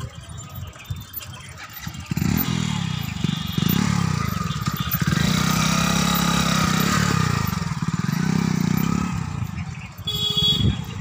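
A motor vehicle engine, most like a motorcycle's, starts running loudly about two seconds in and revs up and down for several seconds before dropping away near the end. A short high ring is heard just before the end.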